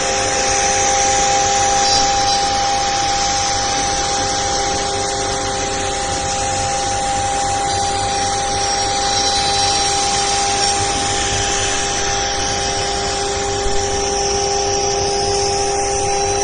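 CNC router spindle running steadily, a held whine of several tones over a constant hiss of machining noise.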